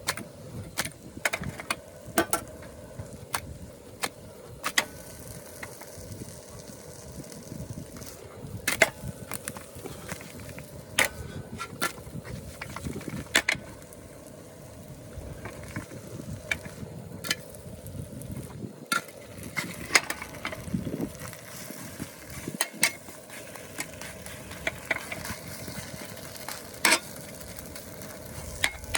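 Camp cooking: irregular sharp clicks and taps of utensils against cookware, about one every second or two, over a steady low hiss.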